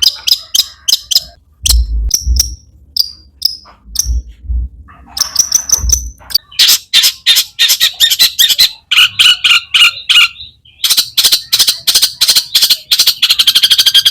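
Long-tailed shrike (cendet) singing: short, sharp, high notes spaced apart at first, then from about five seconds in a fast run of harsh chattering notes that gets quicker toward the end.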